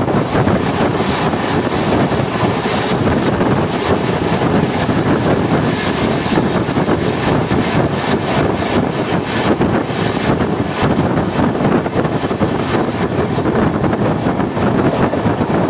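Passenger train running at speed, heard from on board: a loud, steady rumble and rush with wind buffeting the microphone.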